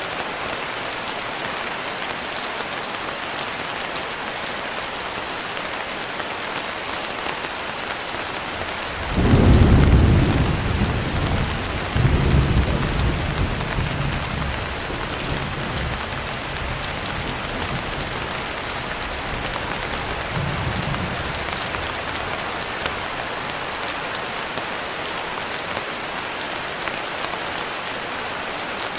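Steady heavy rain falling, with a roll of thunder about a third of the way in: a sudden deep rumble, a second surge a few seconds later that fades away slowly, and a fainter rumble after that.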